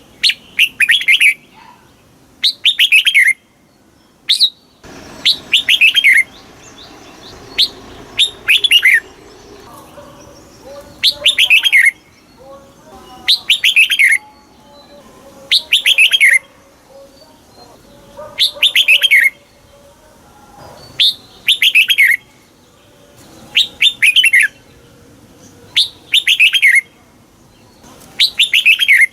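Red-whiskered bulbul singing: the same short, loud phrase repeated about every two seconds, each a quick run of notes falling in pitch. A faint background hum sits under the song from about five seconds in.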